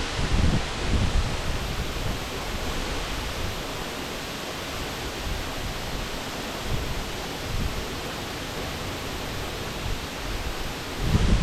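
Waterfall rushing: a steady, even wash of falling water, with low buffeting, probably wind on the microphone, in the first second and again near the end.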